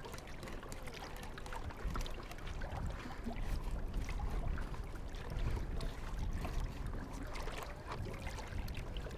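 Water lapping and trickling against a kayak hull, with a steady low rumble and scattered small clicks and knocks.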